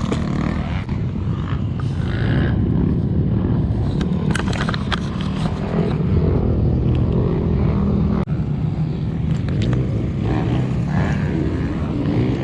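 KTM 150SX two-stroke motocross bike engine running and revving, its pitch rising and falling, over a dense low rumble with a few sharp knocks.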